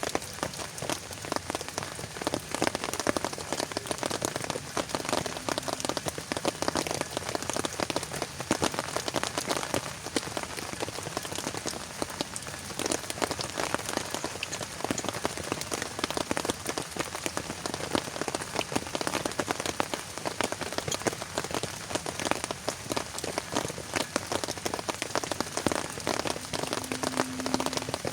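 Heavy rain falling steadily, a dense, even patter of countless drops striking a surface.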